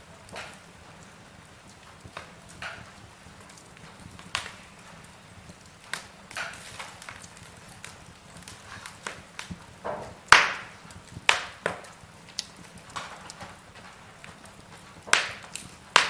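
Wood fire burning in a fireplace: logs crackling with irregular sharp pops over a low hiss, a few louder cracks about ten seconds in and near the end.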